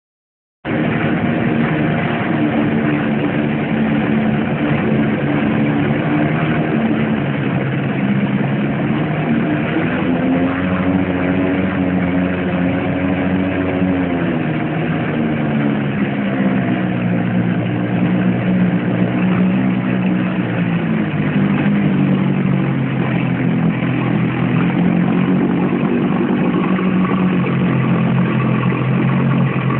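Johnson 9.5 hp two-stroke outboard motor running, its engine note rising and falling a few times as the throttle is opened and closed.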